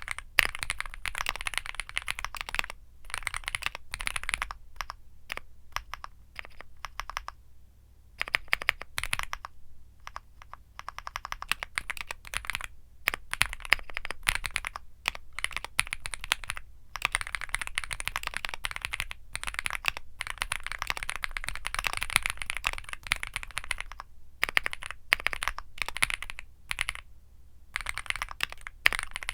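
Typing on a Womier SK75 mechanical keyboard with Womier Mint Blizzard switches: fast runs of sharp keystroke clicks, broken by a few brief pauses.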